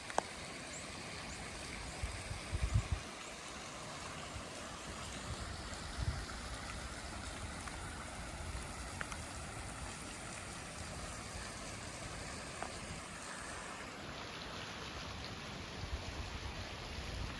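Steady rushing outdoor noise with a few short low thumps, two to three seconds in and again around six seconds.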